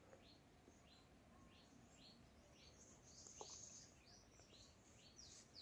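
Faint bird calls: a short, high, falling note repeated about every half second, with a brief louder call about three seconds in.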